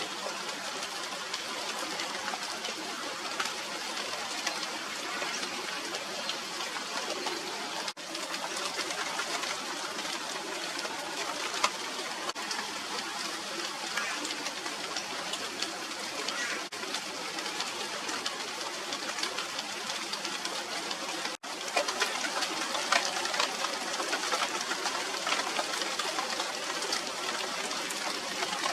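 Steady rain falling, a dense patter of drops. It gets a little louder for the last several seconds.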